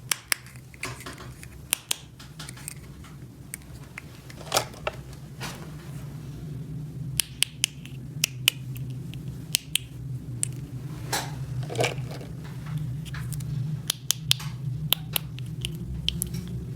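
Small plastic toy pieces clicking and tapping as they are handled, over a steady low hum.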